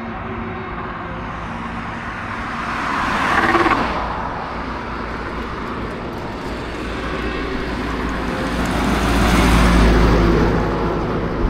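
Road traffic: motor vehicles passing close by over a steady engine hum. The sound swells and fades twice, briefly about a third of the way in and longer near the end.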